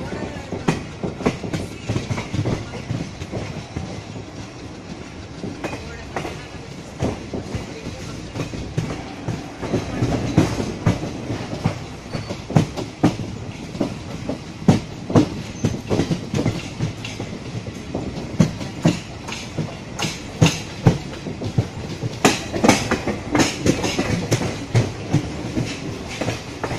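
Passenger train running along the track, heard from an open coach window: a steady rush of noise with the wheels clattering over rail joints in an uneven stream of sharp knocks. About four-fifths of the way in, a denser cluster of louder clicks comes through.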